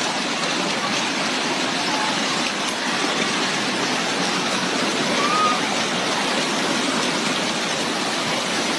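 Floodwater rushing past in a steady, unbroken torrent.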